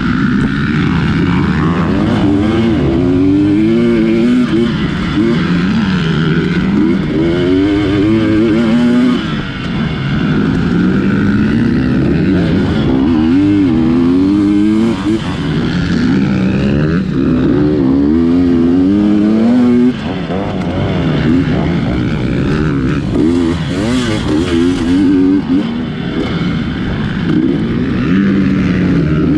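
GasGas 250 dirt bike engine revving up and down over and over as the rider works the throttle through a tight hare scramble course, with a brief chop of the throttle about two-thirds of the way through.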